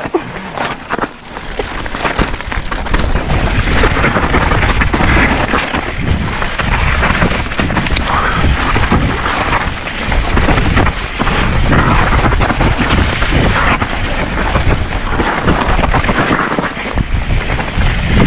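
Wind buffeting a GoPro microphone on a fast mountain bike descent, with tyres rolling over rock and dirt and the Specialized Stumpjumper rattling through repeated jolts and knocks.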